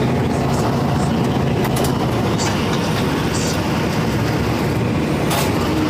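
Steady loud drone of a racing engine running, with a low, even hum and a dense rumble over it.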